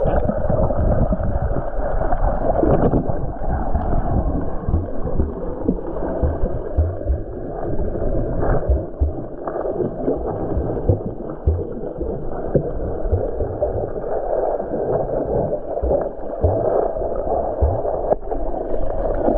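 Stream water rushing and gurgling, sounding dull and muffled, with irregular low knocks and thuds.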